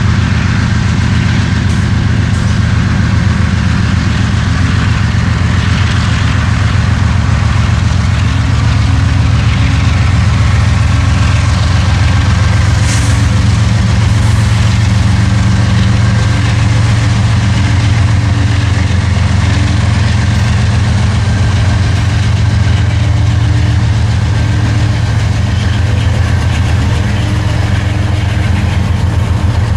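Large diesel engine running steadily at a constant low throb, typical of a diesel locomotive idling or working at steady throttle. There is a brief sharp click about halfway through.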